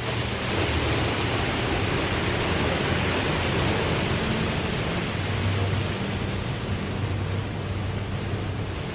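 Waterfall: a steady rush of falling water that swells a little at the start, with faint low steady tones beneath it.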